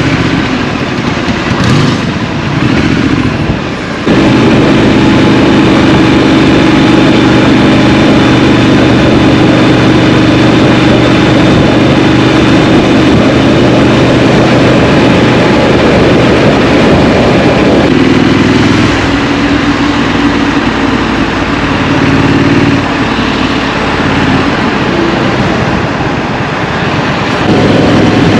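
Scrambler motorcycle engine heard from the rider's point of view. It gets much louder about four seconds in and holds a steady pitch under load, eases off and varies from about eighteen seconds, then picks up again near the end.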